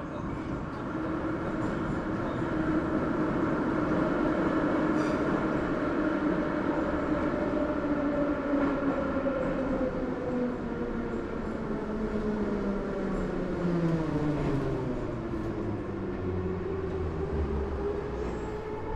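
New York City 6 subway train slowing down, its motor whine sliding steadily lower in pitch over the second half, over a continuous rumble of the car running on the rails.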